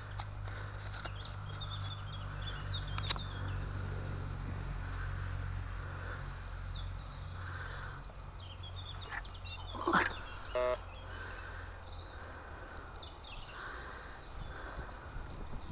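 Metal detector playing through its own speaker as the coil is swept: a low steady threshold hum with soft warbling swells. About ten seconds in there is a short rising-and-falling sweep, then a brief beep of a target signal.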